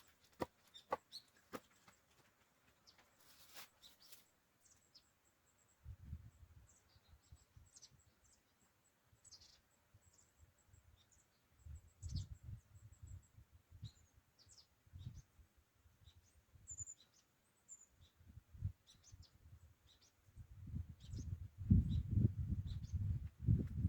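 Small birds chirping, with short high calls scattered throughout. A few sharp knocks come in the first seconds, and bursts of low rumbling noise grow heaviest near the end.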